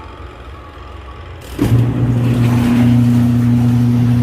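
Manual washing machine's spin motor switched on about a second and a half in, giving a loud, steady electric hum. The machine has a spin fault, which the technician suspects is in the motor.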